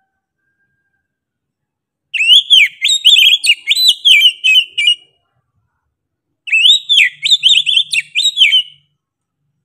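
Oriental magpie-robin (kacer) singing loudly: two bursts of rapid whistled notes that sweep up and down, the first starting about two seconds in and lasting about three seconds, the second shorter, near the end.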